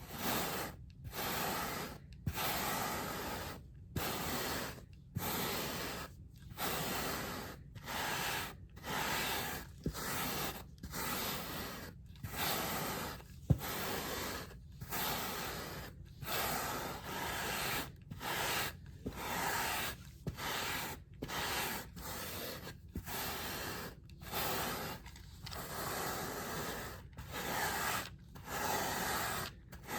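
A hand carpet brush scrubbing a rug pile with repeated strokes. The scratchy bristle strokes come in a steady rhythm of roughly one a second, with brief pauses between them.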